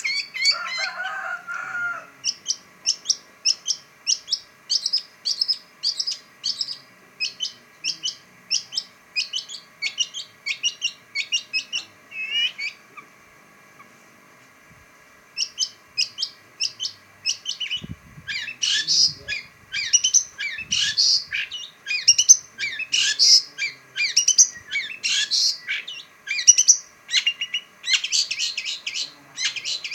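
Long-tailed shrike (pentet) singing: a long run of short, sharp chattering notes, about two a second, breaking off for a couple of seconds midway, then coming back faster and louder.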